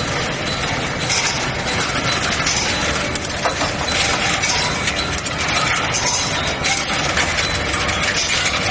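Steel ball hot-rolling line with its induction heating furnace running: a continuous dense mechanical clatter full of rapid metallic clicks and rattles.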